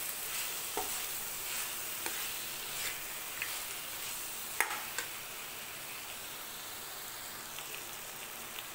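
Drumstick pods, tomato and moong dal badi frying in oil and masala in a kadai, with a steady sizzle. A metal spoon stirs them, scraping and tapping the pan a few times, then the stirring stops about halfway while the sizzle goes on.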